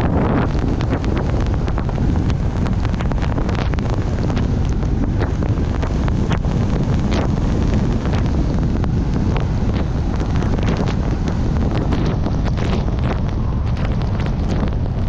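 Steady low rumble of a vehicle driving on snowpack in four-wheel drive, heard from inside the cabin, with many small clicks and ticks throughout.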